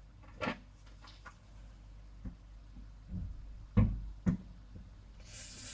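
Parts of a KJW Glock airsoft pistol being handled during reassembly: a few short, separate clicks and knocks of small parts, the strongest a little under four seconds in, with a brief hiss near the end.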